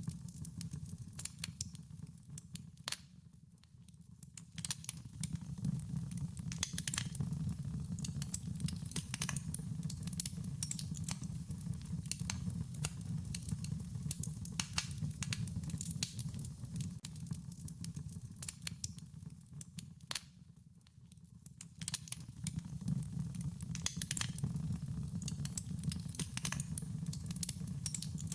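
Wood fire crackling, with frequent sharp pops over a steady low rumble of the flames. It dips quieter twice, a few seconds in and again about two-thirds of the way through.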